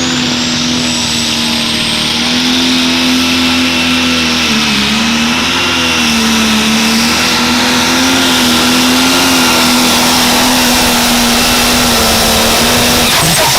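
Turbocharged pro stock pulling tractor's diesel engine held at full power during a pull. A high turbo whistle rides over the steady engine note. The note wavers briefly about five seconds in and drops away just before the end as the throttle comes off.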